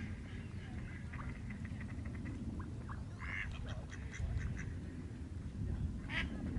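Ducks quacking in short, scattered calls, with louder calls near the end, over a steady low rumble.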